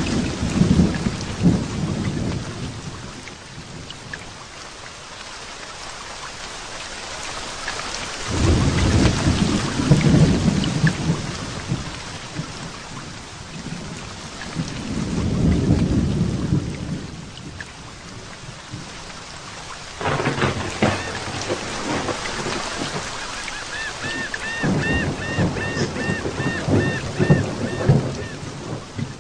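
Heavy rain falling steadily, with thunder rumbling about five times; one peal breaks in sharply about two-thirds of the way through. Near the end, a high chirping call repeats rapidly over the rain.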